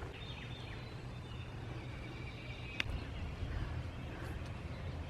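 Outdoor ambience: a steady low rumble with faint bird calls, and one sharp click about three seconds in.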